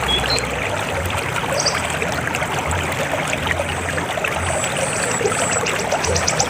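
River water flowing steadily with a dense rush. Near the end, a rapid high-pitched trill of short repeated notes begins.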